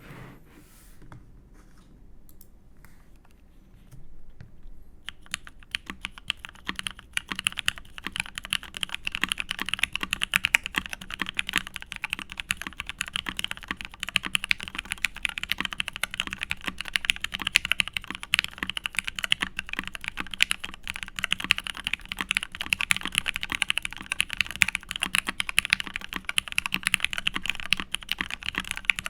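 Custom Matrix 8xv2.0 mechanical keyboard with lubed vintage Cherry MX Black linear switches in an aluminium plate and Cherry keycaps being typed on. There are a few scattered keystrokes, then fast, continuous typing from about five seconds in.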